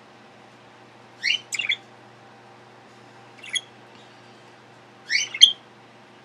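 Small pet parrot chirping: three short bursts of sharp rising chirps, the first and last of two or three notes each, the middle one brief.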